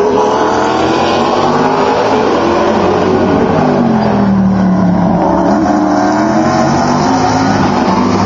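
Several sports racing cars running through a tight hairpin, their engine notes overlapping. One engine's pitch drops as it slows into the corner about four seconds in, then rises again as it accelerates out.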